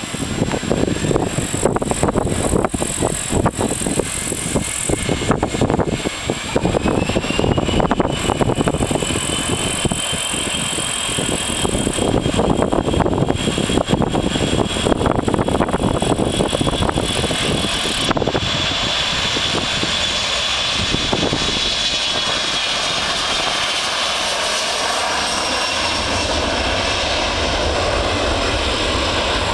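Boeing 737-300's CFM56 jet engines at takeoff power during the takeoff roll, a whine rising in pitch and then holding steady over heavy rumble and rattling from the runway. About two thirds of the way through the rattling stops abruptly and the sound turns to a smooth steady engine roar: the wheels have left the runway.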